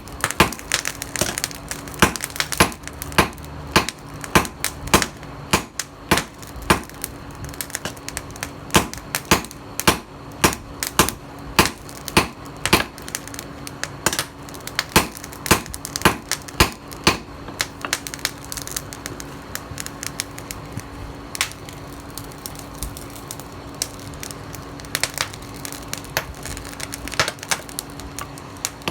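Hammer blows on steel at an anvil, about two a second, thinning out after the middle with a few more near the end, over a steady low hum.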